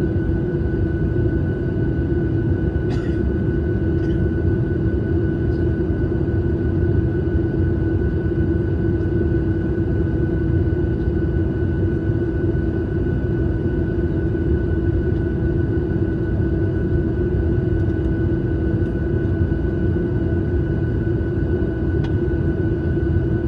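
Steady drone of an airliner's engines and rushing air heard inside the cabin in flight, a low rumble with a steady hum and a fainter whine above it. A couple of faint clicks.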